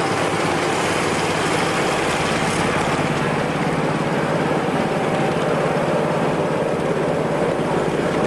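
A steady mechanical running noise with a low hum, holding an even level throughout.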